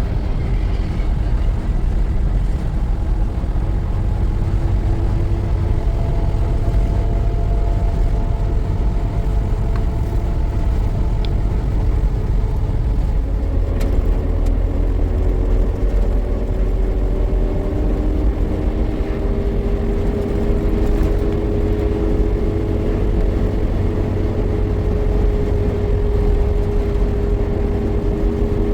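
A motor vehicle running steadily, a continuous low drone with engine tones that shift slowly in pitch and grow stronger about halfway through.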